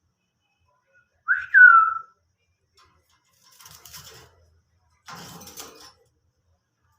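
Green ringneck parrot (rose-ringed parakeet) giving one loud whistle that bends up and then falls, about a second and a half in. Two softer, scratchy sounds follow a few seconds later.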